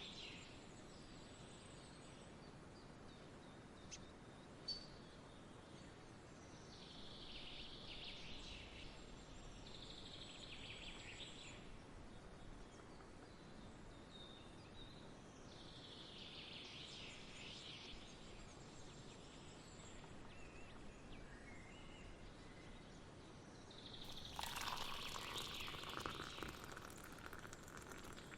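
Faint outdoor nature ambience: birds chirping in short bursts over a steady low background hiss, with a couple of small clicks early and a louder rush of noise near the end.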